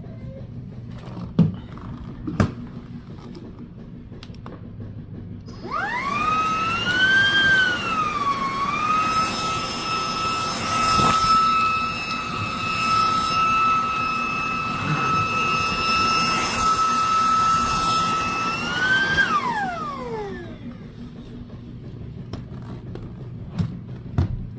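Snowkuna cordless stick vacuum's motor switching on and spinning up to a steady high whine. It runs for about eleven seconds, then is switched off and winds down in a falling whine. A few sharp clicks from handling come before and after.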